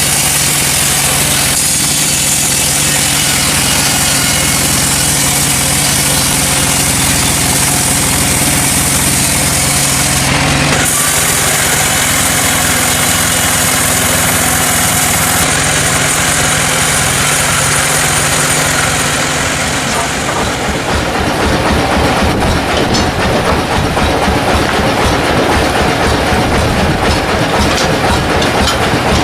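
Sawmill machinery running loudly and steadily. About two-thirds of the way through, the sound changes to a rougher, rattling clatter.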